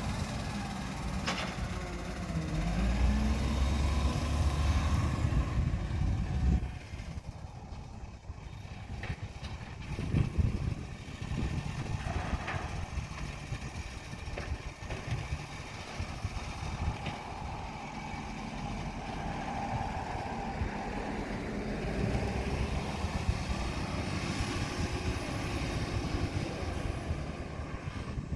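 Recycling truck's engine running, louder with a rise and fall in pitch during the first few seconds, then dropping suddenly to a quieter steady rumble about six seconds in.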